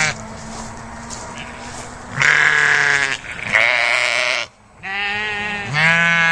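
A bleating animal call, repeated: four long bleats, each about a second long, one after another.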